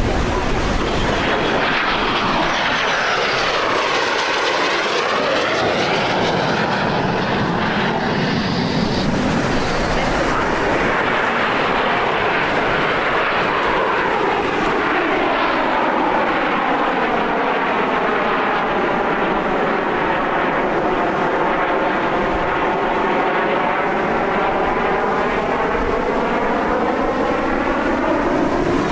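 Aermacchi MB-339 jet trainers flying past, a loud, steady jet-engine noise with a slow swooshing sweep in its tone as the aircraft pass, twice over.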